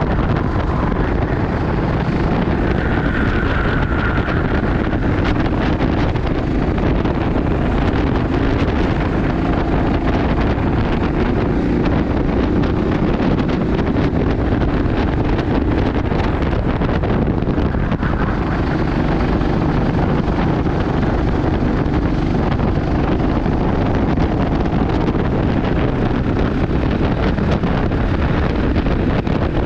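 Steady wind buffeting the microphone, with a racing kart's engine running underneath.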